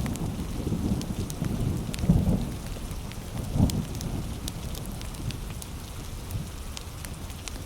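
Heavy rain falling steadily with a deep rumble that swells a few times, and a wood fire crackling with scattered sharp pops.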